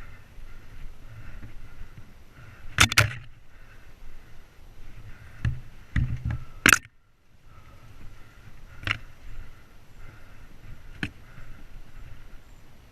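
Mountain bike rolling over a rough trail: steady tyre rumble with several sharp knocks and clatters as the bike hits rocks and roots, the loudest about three and seven seconds in.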